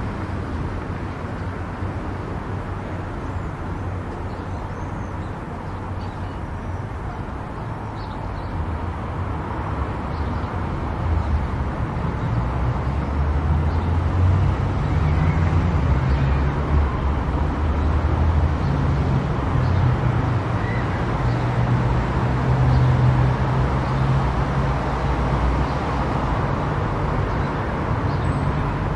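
Car driving on a road: steady engine and tyre noise, with a low drone that grows louder about ten seconds in and stays up.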